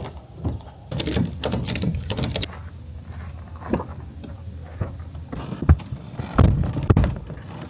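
Thumps, knocks and rustling of camping gear being packed up, with a door or hatch-like thud near the end.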